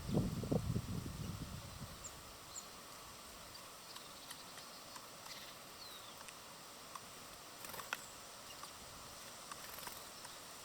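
Faint outdoor ambience at a bird feeder: a low rumble in the first second or so, then steady hiss with a few faint, short, high bird chirps and scattered light clicks.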